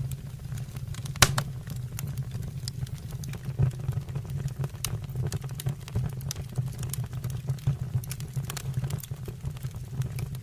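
Fireplace fire crackling: irregular snaps and pops over a steady low rumble, with one sharper crack about a second in.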